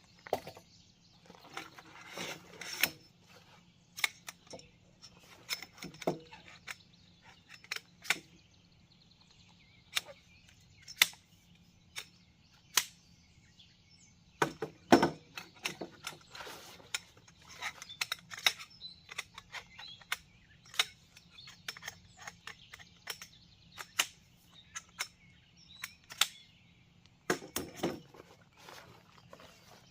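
Irregular sharp clicks and knocks of things being handled, louder in clusters a couple of seconds in, midway and near the end, over a faint steady high hiss.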